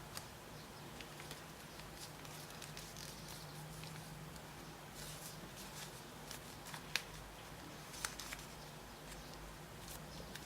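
A paper sheet being handled and folded: soft crinkling and rustling with scattered small crackles, two sharper creasing clicks about seven and eight seconds in, over a low steady hum.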